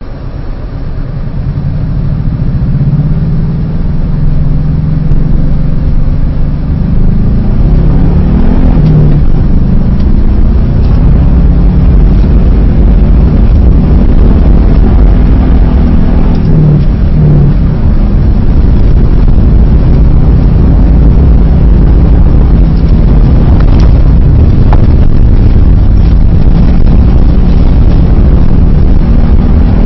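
Subaru Impreza's flat-four boxer engine heard from inside the cabin, loud, its pitch rising and falling repeatedly as the car is driven hard on snow, over a heavy steady low rumble.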